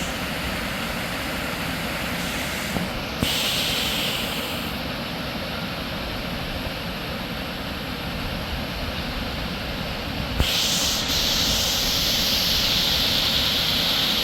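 Steady rushing of water pouring over a man-made waterfall. It gets louder and brighter about three seconds in, eases off, then steps up again at about ten seconds and stays up.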